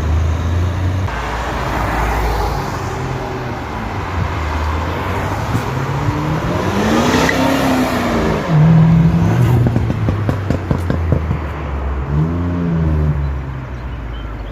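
Car engines revving and driving past, the engine pitch rising and falling twice. The loudest moment is a steady engine note about halfway through, followed by a rapid run of crackles.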